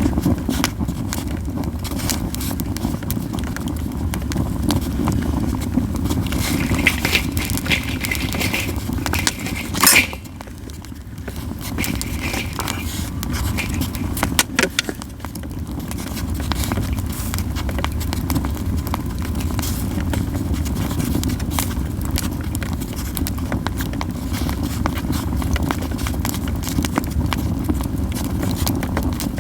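Yew-wood campfire crackling and popping, with many scattered sharp snaps over a steady low rumble. One loud pop about ten seconds in, after which the fire is briefly quieter.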